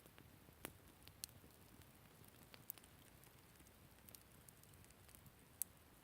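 Wood campfire crackling: scattered sharp pops and snaps over a faint hiss, with one louder pop near the end.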